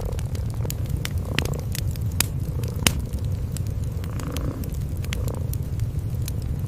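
Cats purring in a steady low rumble, with a wood fire crackling over it in irregular sharp pops and snaps.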